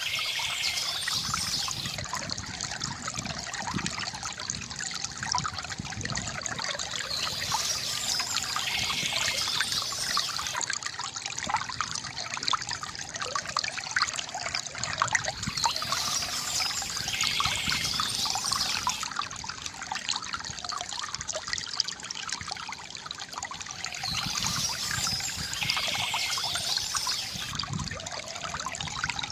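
Water from a bamboo fountain trickling and gurgling steadily. Birds chirp in short spells that come back about every eight seconds.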